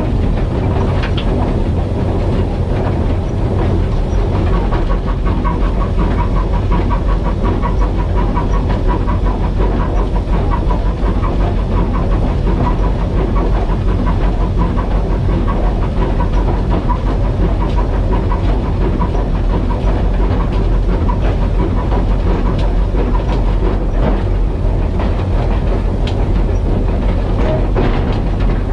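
Steam locomotive running along the line with its train, a steady loud rumble of the loco and wheels on the track.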